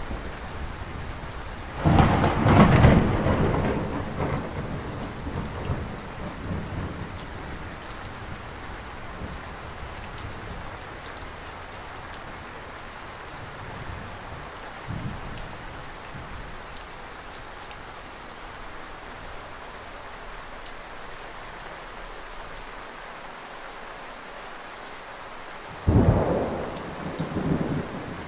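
Thunderstorm: steady rain with thunder. A loud thunderclap about two seconds in rumbles away over a few seconds, a brief fainter one comes around halfway, and another sharp clap comes near the end.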